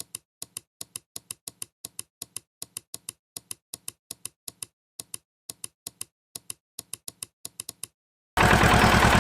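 Typewriter-style clicking, about four sharp clicks a second, over silence. Just after 8 seconds in, a small motor starts running loudly with a fast low pulse.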